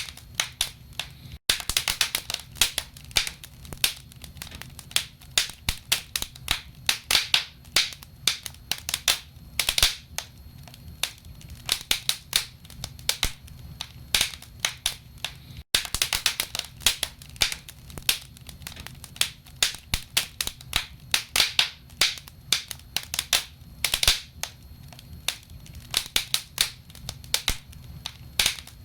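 Wood fire in a fireplace crackling: burning logs give off a dense, irregular run of sharp pops and snaps over a low steady rumble. The sound drops out for an instant twice, about a second and a half in and again about halfway through.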